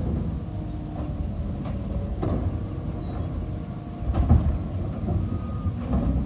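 Garbage truck engine running with a steady low rumble, broken by several knocks and clanks, the loudest about four seconds in.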